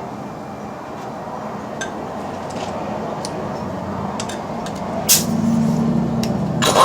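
Metal tools clinking now and then while the front driveshaft is being worked loose. About five seconds in comes a sharp metallic click, then a steady low buzz for about a second and a half, cut off by a loud clatter near the end.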